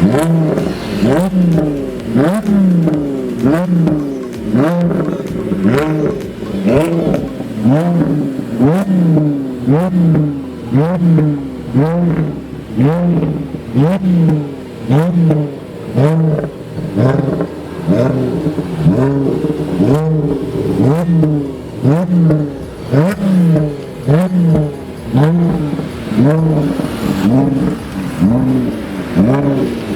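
Audi A7 engine through a loud aftermarket exhaust, revved in quick repeated blips of the throttle. Each rev rises sharply and drops back, about one every second and a bit.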